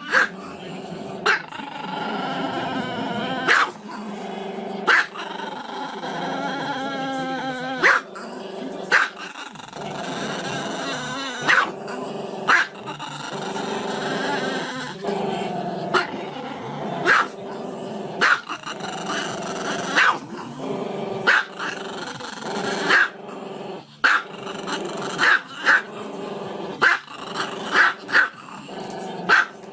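A dog growling without a break, with sharp barks every one to three seconds that come more often in the second half.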